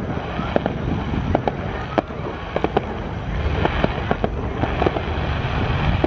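Fireworks display: a rapid, irregular run of sharp bangs and crackles from bursting shells, several a second, over a continuous low rumble.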